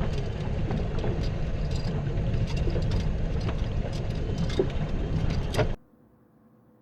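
Fishing boat on the water: a steady low rumble from the motor and water, with scattered knocks and clicks. It cuts off suddenly near the end, leaving near silence with a faint hum.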